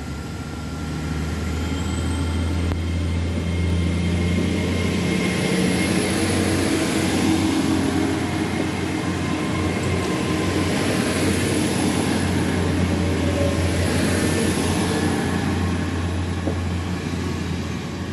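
TransPennine Express Class 802 (Hitachi AT300) bi-mode train departing and running past close by, its noise building to a peak midway and easing off near the end. Under it is a steady low hum, with a faint high whine rising about two seconds in.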